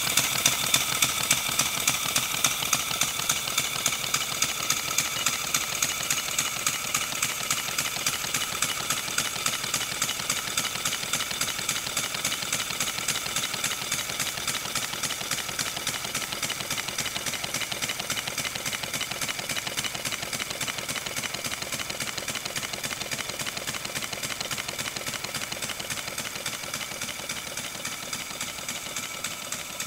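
Model Forney-type locomotive's engine running on compressed air: a rapid, even chuffing of exhaust over a steady hiss, slowly getting quieter.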